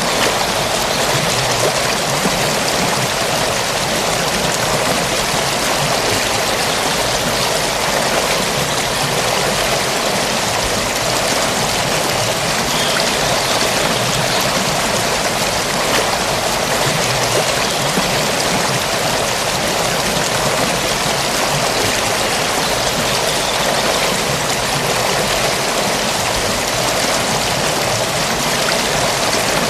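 Forest stream flowing, a steady, dense rush of running water with no breaks or changes.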